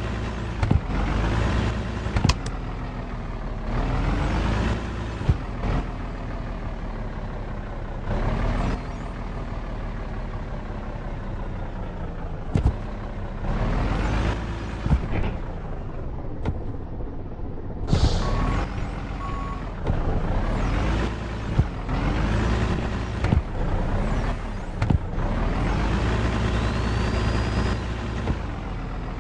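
Truck engine running under load with a deep rumble, its pitch rising and dropping back again and again as it pulls. Scattered knocks and rattles run through it, and two short beeps come about eighteen seconds in.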